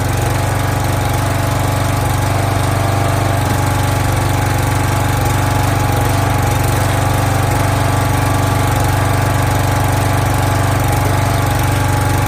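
Small gas engine of a log splitter running steadily.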